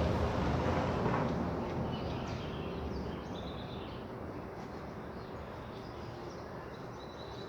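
Rolling thunder rumbling low and fading away over the first few seconds, over a steady background hiss. Birds chirp from about two seconds in.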